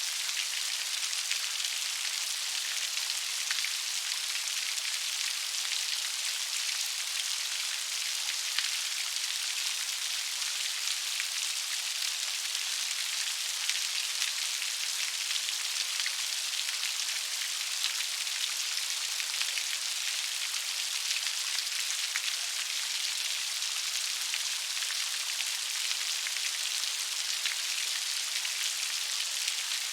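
Steady gentle rain: a dense, even patter of drops with a soft hiss, no thunder.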